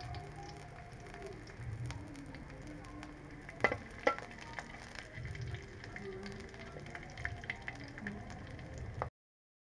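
Garlic cloves, shallots and a red chili frying in a steel wok, stirred with a metal spatula that scrapes and knocks against the pan, with two sharp knocks about halfway through. The sound cuts off suddenly near the end.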